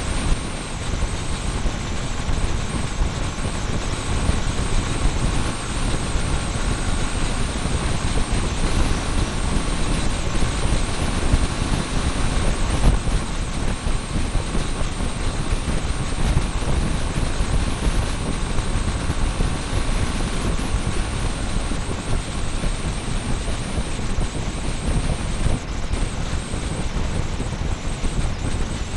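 Motorcycle on the move, heard through a small camera's microphone cable-tied to the bike: a steady, unbroken rumbling noise of engine, wind and road.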